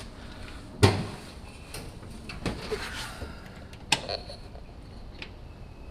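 A few sharp knocks and clunks of handling around the car, the loudest about a second in, with no engine cranking or running: the car does not start because its battery is disconnected.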